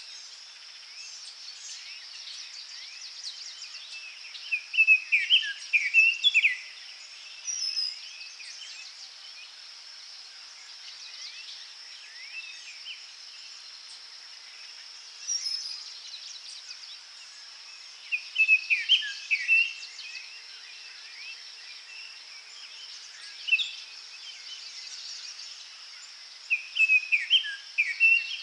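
Forest birdsong: a bird sings short loud phrases of quick notes every several seconds, with fainter chirps from other birds between them, over a steady high-pitched insect buzz.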